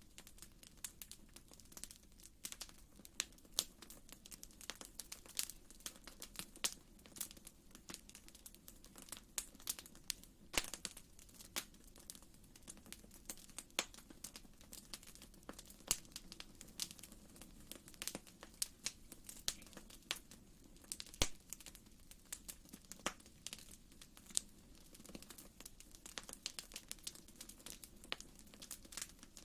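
Fire in a fireplace crackling: a steady stream of irregular sharp snaps and pops.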